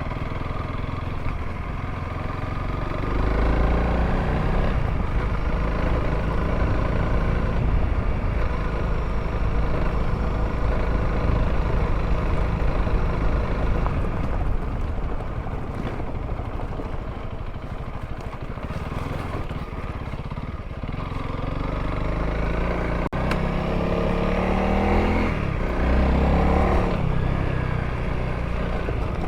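Honda CRF300L's single-cylinder engine running under way on a dirt road, the revs rising as it pulls about three seconds in, settling lower through the middle, and climbing again near the end. A single brief click a little before the end.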